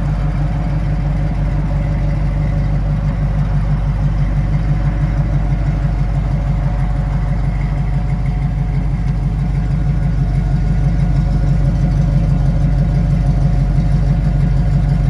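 Ram Jet 350 fuel-injected small-block V8 of a 1971 Chevrolet Camaro RS running steadily through headers and dual exhaust, with a deep, even exhaust note that grows slightly louder in the second half.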